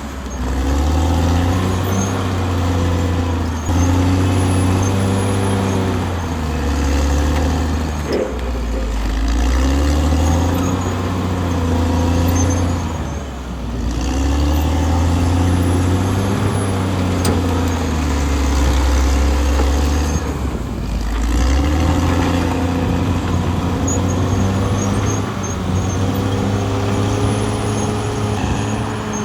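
Caterpillar D6R XL bulldozer's diesel engine working under load, its pitch sagging and recovering several times as the blade pushes soil.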